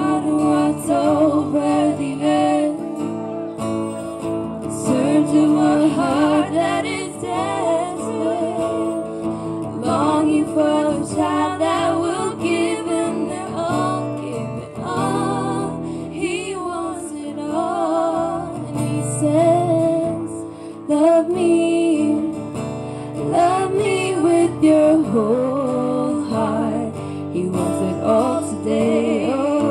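Worship song performed live: strummed acoustic guitar with singing voices carrying a wavering melody.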